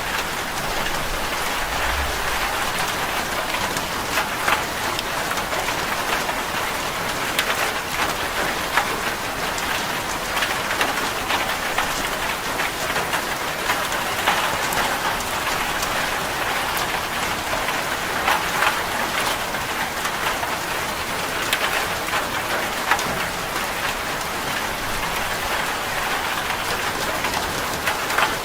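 Steady rain drumming on a corrugated zinc (seng) roof: a dense, even patter with many sharp individual drop hits.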